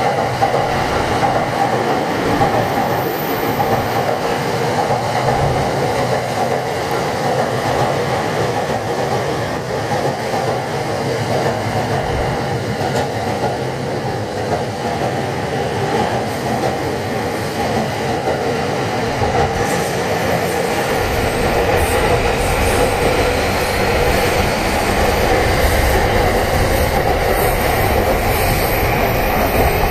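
Electric passenger train running on the tracks, a steady loud noise of wheels on rail. A deeper rumble builds about two-thirds of the way in, and a faint rising whine follows toward the end.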